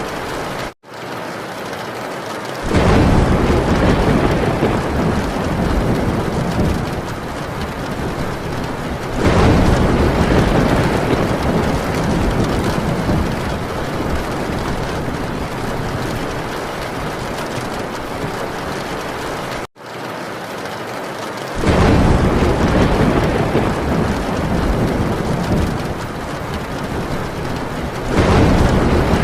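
Heavy rain drumming steadily on a tin roof, with low rolling thunder swelling up and fading four times. The sound drops out for a split second twice, where the recording loops.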